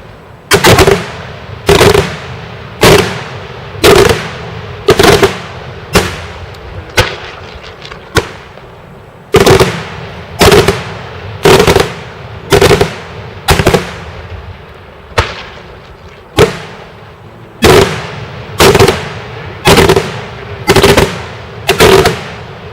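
Daytime fireworks: a steady run of loud, sharp bangs about one a second, each one ringing out with a short echo.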